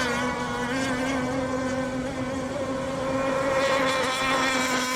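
Radio-controlled racing boats' small nitro engines running at high revs in a race: a steady, high-pitched buzzing whine that swells a little in the second half.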